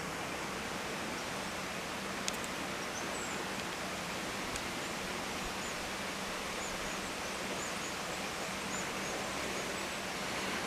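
Steady, even outdoor background noise, like rushing air or distant water, under a faint low hum. A couple of small clicks, and from about three seconds in a run of faint, short, high chirps.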